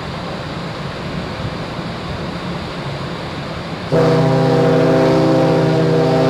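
Wind and sea noise on deck, then about four seconds in a large ferry's horn sounds, a loud, steady low blast with a rich stack of overtones that is still going at the end: a horn salute as the ship passes its sister ferry.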